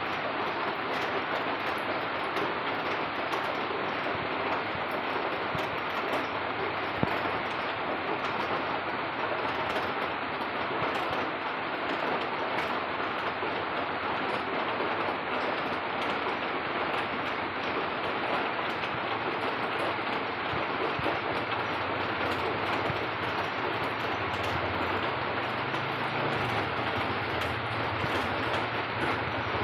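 Steady light drizzle falling, an even hiss of rain. A low rumble comes in during the last third.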